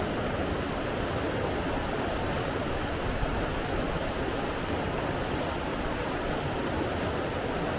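Steady rush of running water, an even noise with no pauses or swells.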